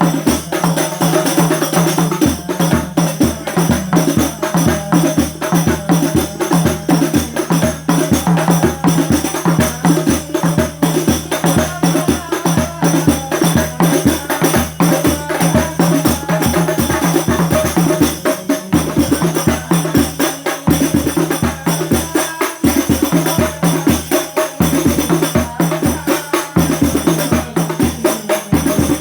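Percussion music of frame drums and tambourine jingles playing a fast, steady beat without a break.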